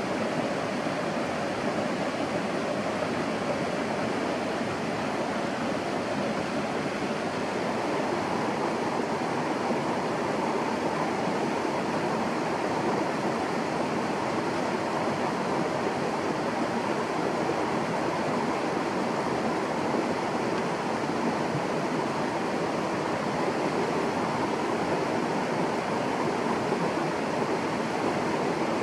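Steady, even rush of water with no breaks or single events standing out.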